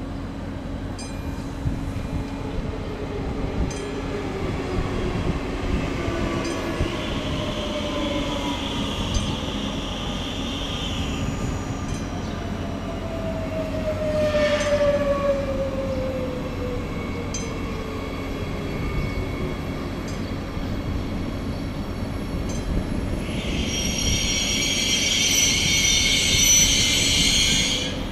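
SBB FV-Dosto double-deck electric train (Bombardier Twindexx) pulling in and slowing, its traction drive whining down in pitch over a steady electrical hum, with occasional wheel clicks. A loud high squeal from the wheels and brakes comes in near the end as it slows further.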